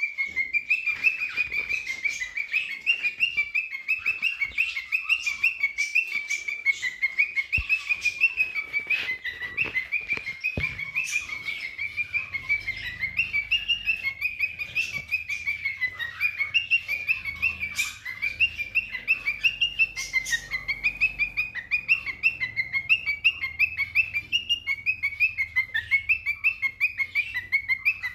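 Cockatiel singing: a continuous run of quick, repeated whistled chirps at a fairly even pitch, with a few sharp clicks among them.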